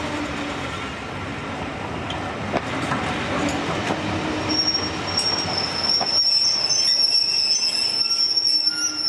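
Steam train running on the rails with a rumble of wheels. About four and a half seconds in, a high steady metallic wheel squeal sets in, grows louder and keeps on to the end.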